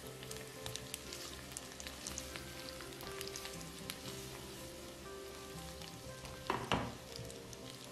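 Spaghetti and shrimp sizzling and crackling in a hot frying pan while being tossed with tongs, with a brief louder clatter about six and a half seconds in.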